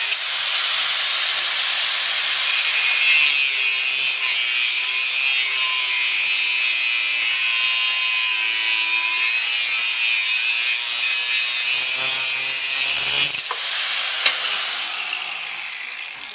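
Angle grinder with a cutoff wheel cutting steel plate, a steady high-pitched grinding noise. About thirteen seconds in it is let off and spins down with a falling whine.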